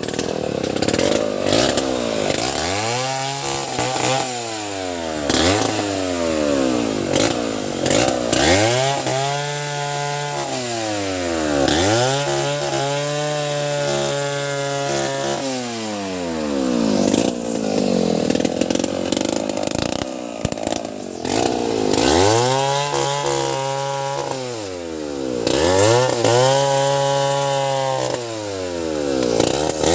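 Two-stroke chainsaw cutting wood, its engine pitch repeatedly climbing to a high steady whine and dropping again every two to three seconds as the throttle is opened and eased.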